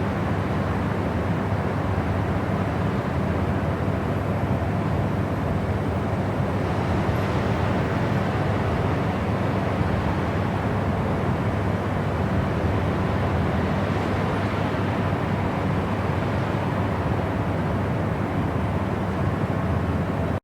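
Steady, unchanging masking noise, a deep even rumble weighted toward the low end with the highs rolled off, like a vehicle or aircraft cabin.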